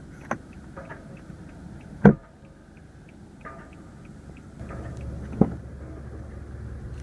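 Clicks and knocks from the car's sun visor and its mirror cover being handled, with one sharp snap about two seconds in and lighter taps before and after; a low steady hum comes in about four and a half seconds in.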